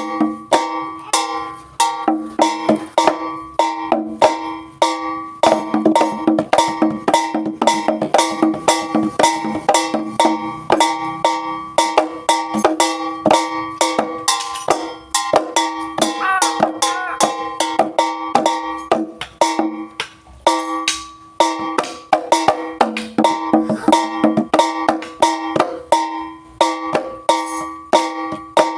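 Javanese jaranan gamelan music: fast, densely packed drum and percussion strokes over steady ringing pitched tones.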